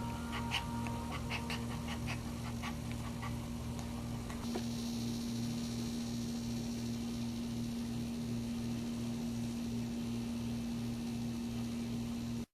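Newborn puppies squeaking in quick, short cries over the first few seconds, over a steady low hum.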